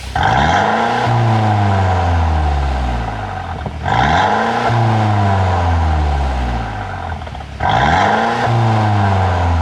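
Mercedes-Benz W205 C200's turbocharged four-cylinder engine, fitted with a pop-and-crackle exhaust tune, revved three times while stationary: each time the revs rise quickly and then sink slowly back toward idle over about three seconds.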